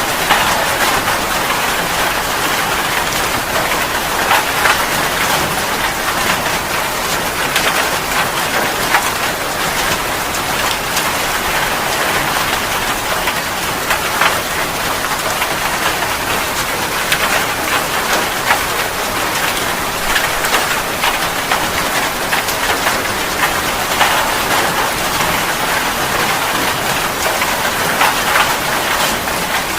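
Steady rain: a dense, even hiss with many sharp taps of drops striking a surface.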